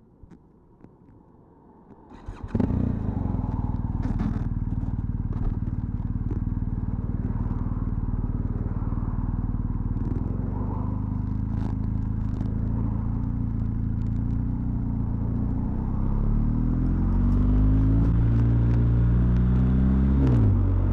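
BMW R 1250 GS Adventure's boxer-twin engine starting about two seconds in after a few faint clicks, then idling steadily. Near the end the engine speed rises, drops sharply once and rises again.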